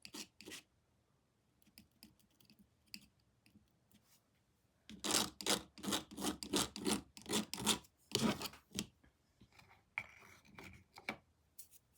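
Paintbrush scratching across canvas in quick short strokes, laying on brown paint. There are a few faint scattered strokes at first, then a brisk run of about three or four strokes a second for a few seconds, then a few more.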